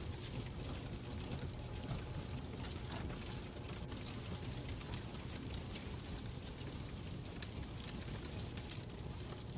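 Fireplace crackling: a steady low rumble and hiss scattered with frequent small, irregular pops.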